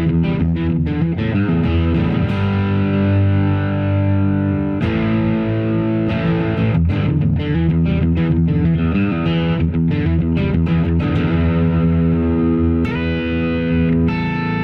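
Harley Benton JA-60 Jazzmaster-style electric guitar with single-coil pickups, played through an overdrive/distortion pedal into a modelling amp: a steady run of held, driven chords mixed with picked notes.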